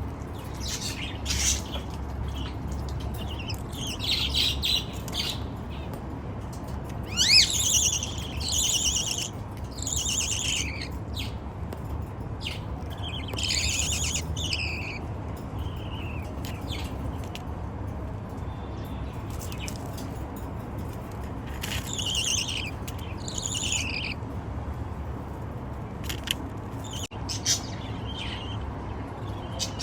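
Baby budgies (budgerigar chicks) chirping and squawking in short high bursts every second or two, over a steady low hum.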